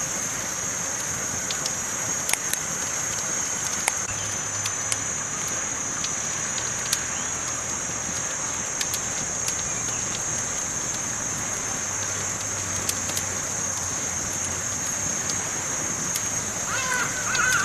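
Wood fire burning, with sharp crackles and pops at uneven intervals over a steady high hiss. A short wavering pitched call comes in near the end.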